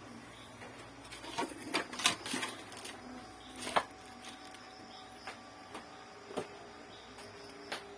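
Scattered clicks and knocks of tools and plastic parts being handled while an Epson L3110 inkjet printer is taken apart, the loudest about two seconds in and near four seconds.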